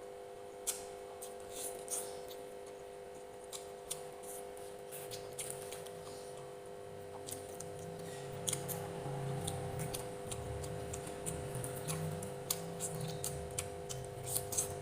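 Close-miked eating sounds: wet chewing and mouth clicks, scattered sharp clicks throughout, with heavier chewing from about halfway through, over a steady low hum.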